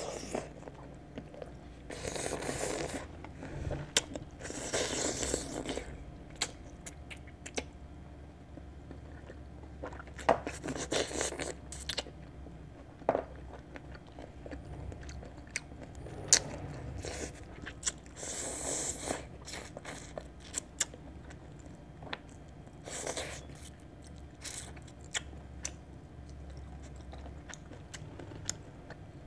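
A person biting and chewing native Korean chicken that she tears off by hand. There are small clicks throughout and louder bouts of chewing every few seconds.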